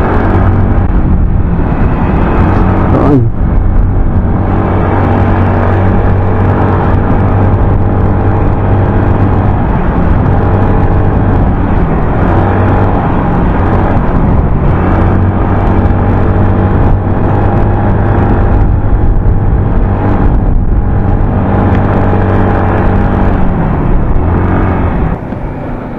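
Motorcycle engine running under way, its steady note dipping and shifting pitch a few times as the speed changes, with wind rushing over an action camera's external mic that a DIY anti-wind cover has only partly tamed.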